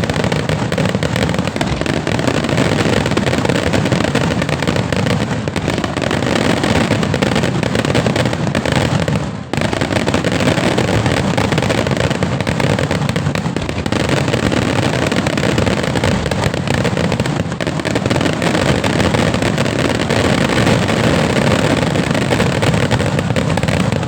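Fireworks display going off in a dense barrage: a continuous run of rapid bangs and crackling, with a brief lull about nine and a half seconds in.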